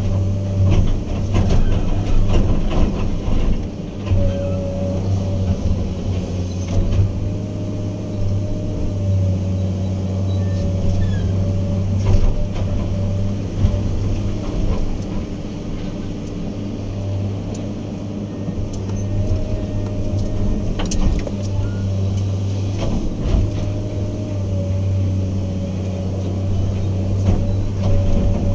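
Heavy diesel earthmoving machine's engine running steadily under work, with a steady higher whine above the engine and scattered knocks and clanks.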